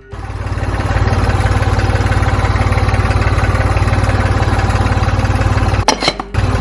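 Tractor engine running steadily at a fast, even beat while driving a homemade thresher, with a broad mechanical clatter over it; the sound breaks off briefly with a click about six seconds in, then carries on.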